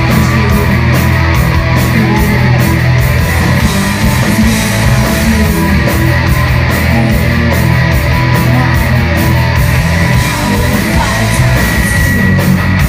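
Live alternative rock band playing loud: distorted electric guitars, bass and drums driving a steady beat.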